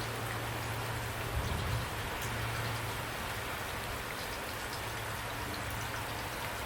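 Steady rain falling, a dense even patter of drops, with a low steady hum underneath.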